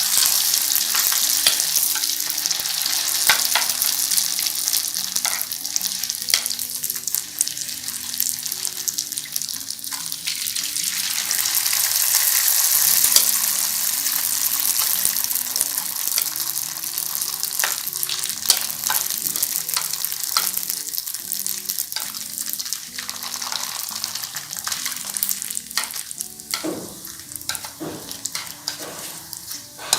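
Rice paper frying in shallow hot oil in a pan: a steady, loud sizzle that swells to its peak around the middle. Sharp clicks come more often toward the end.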